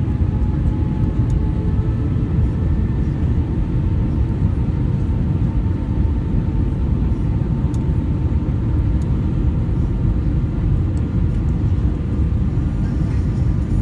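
Steady roar of engine and airflow noise inside an Airbus A320 cabin in flight, with faint steady whining tones above the low rumble.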